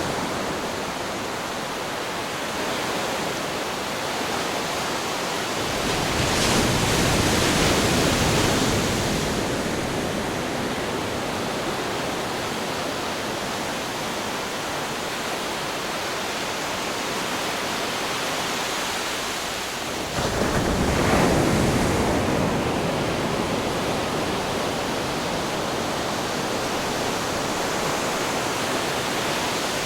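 Ocean waves crashing against rocks: a continuous wash of surf, with two louder waves breaking, one about six seconds in and one about twenty seconds in.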